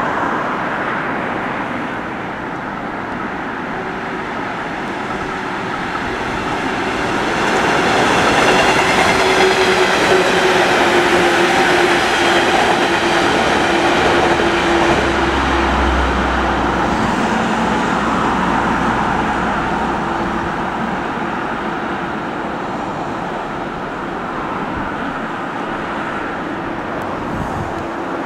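JR West 115 series electric train passing. It grows louder about seven seconds in, stays loud for several seconds with a steady hum, then slowly fades as it moves away.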